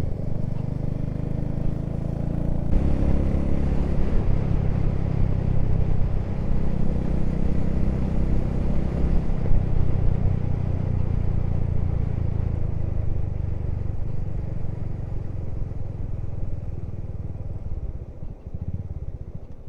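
Motorcycle engine running steadily while riding along. The note changes about three seconds in and again near the middle, and the engine eases off near the end as the bike slows.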